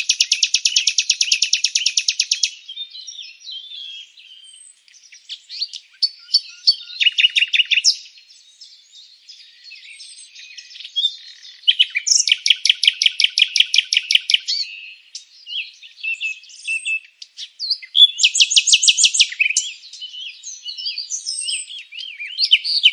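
Songbirds singing, with long fast trills near the start, in the middle and again a little later, and varied short chirps and whistles in between.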